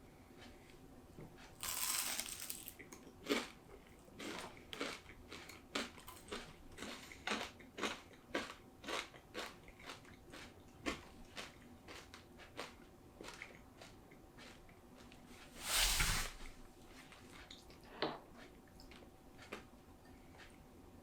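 A person chewing crisp food close to the microphone: many short crunches at about two or three a second, with two longer, louder noisy sounds, one about two seconds in and one later on.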